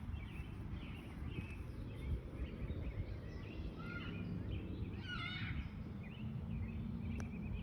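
Wild birds chirping and calling over a steady low rumble, with a busier run of calls about four to five seconds in, and a single sharp click near the end.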